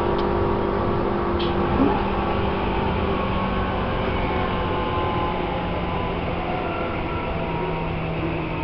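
Tobu 10000 series electric train running, its field-chopper-controlled traction equipment giving a steady whine over the wheel and rail rumble. A couple of faint clicks come early, and the whine sags slightly lower in pitch in the later part.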